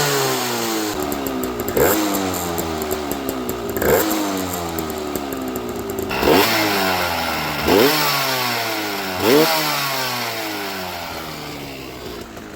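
Aprilia AF1 125's Rotax 123 two-stroke single blipped about five times, each blip followed by the revs falling slowly away, as the engine runs again after years of standing.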